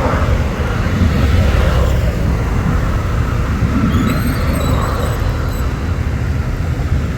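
Diesel locomotive and its train running by with a steady heavy low rumble, and a faint thin high-pitched squeal about four seconds in that lasts a second and a half.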